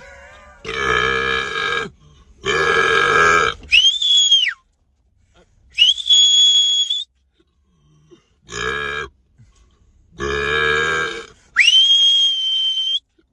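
Rough croaking, burp-like calls about a second long alternating with clear, high whistles that rise quickly and then hold steady. The pattern runs two croaks and a whistle, then a lone whistle, then two croaks and a whistle again.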